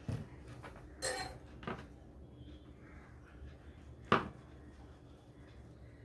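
Hard objects knocked and clinked against a work surface as tools and parts are handled: a thump at the start, a short metallic ringing clink about a second in, and a sharp loud knock about four seconds in, over a low steady hum.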